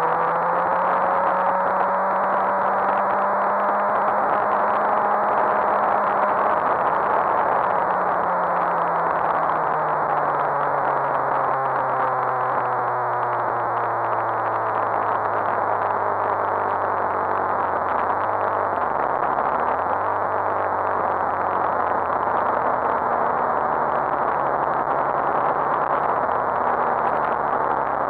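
Suzuki GSX-R1000 K7 inline-four engine with its revs sinking steadily as the bike slows, then running low and even at a crawl, under a steady rush of wind on the camera microphone.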